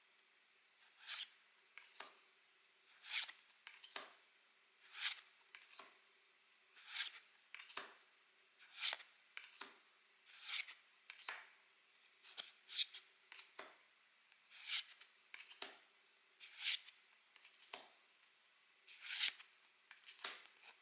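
Pokémon trading cards being slid off a stack one at a time, a soft swish about every two seconds, each one building up and cutting off.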